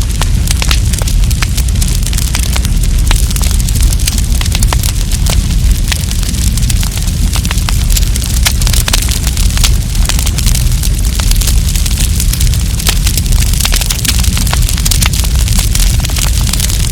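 Wood campfire crackling, with many quick sharp snaps and pops scattered irregularly over a steady low rumble.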